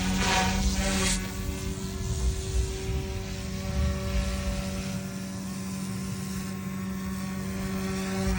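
GooSky S2 Ultra RC helicopter's electric motor and rotor whining steadily at one pitch, with a brief louder rush of air noise in the first second.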